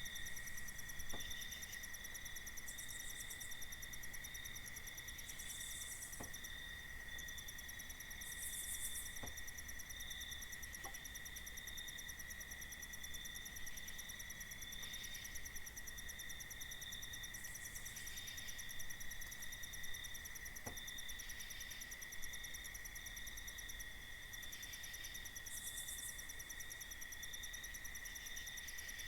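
Night insect chorus of crickets: a steady high-pitched trill, with short higher buzzes coming in every few seconds. A few faint ticks sound now and then, about five in all.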